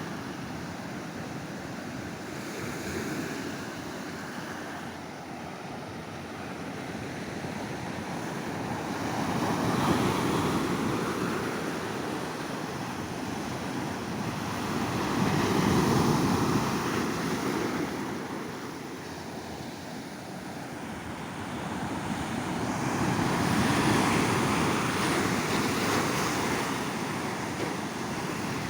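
Ocean surf on a sandy beach: waves break and wash up the shore in three slow swells of noise about seven seconds apart, the loudest in the middle, with some wind on the microphone.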